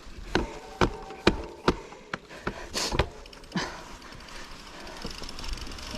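Mountain bike clattering over rough trail: a run of irregular sharp knocks and clicks, with a brief hiss about three seconds in.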